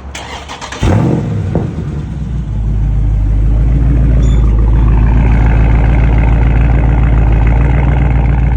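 A 2019 Dodge Charger Scat Pack's 392 HEMI V8 starting: it catches with a loud rev flare about a second in, then settles into a steady, deep, loud idle. The start is being checked for a little squeak the customer hears from the exhaust.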